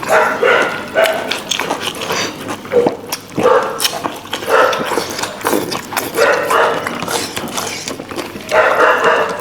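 A dog giving short, repeated calls, roughly one a second, with brief gaps between them.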